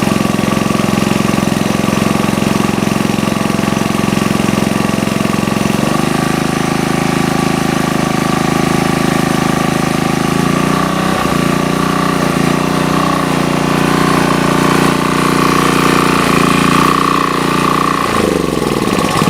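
Sportsman GEN2000 portable generator engine running steadily with a thin whine above its note. The engine speed shifts about six seconds in, again around ten seconds, and sweeps through another change near the end.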